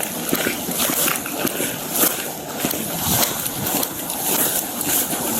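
Irregular rustling, scuffing and clicking close to a body-worn camera microphone, the noise of an officer moving on foot with clothing and gear rubbing and knocking.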